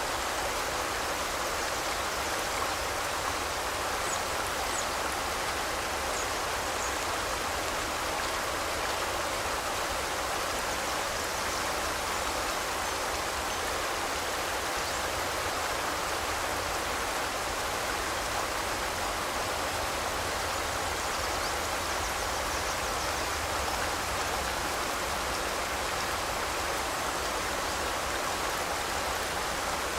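Forest river flowing steadily: an even, unbroken rush of running water.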